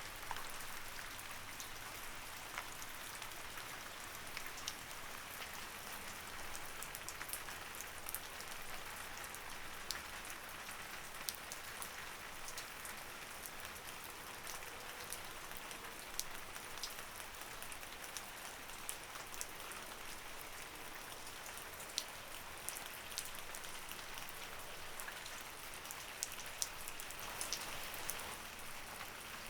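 Light rain falling steadily: an even hiss with scattered individual drops ticking sharply throughout.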